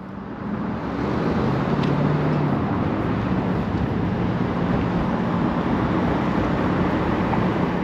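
Road traffic noise heard from an electric scooter riding along a busy city street: a steady din of passing vehicles that grows louder about a second in, with a low engine hum from a nearby vehicle around two seconds in.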